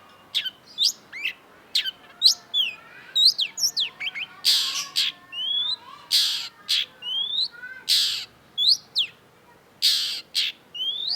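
Long-tailed shrike singing: a fast string of short, sharp sweeping chirps, mixed from about a third of the way in with several harsh, rasping notes.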